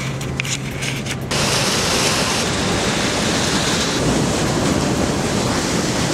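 Steady rush of river water flowing fast over rocks and a concrete edge. A low steady hum underneath stops about a second in.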